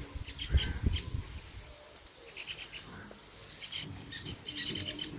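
Baya weavers chirping in quick runs of short, high chirps, coming in three bursts. A low rumble sits under the first burst.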